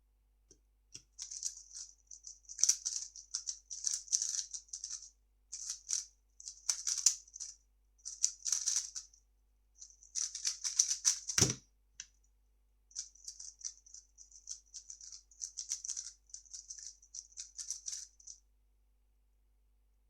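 A 3x3 speed cube being turned quickly by hand: rapid clicking and clacking of the layers in bursts with brief pauses. There is one sharp thump about eleven and a half seconds in.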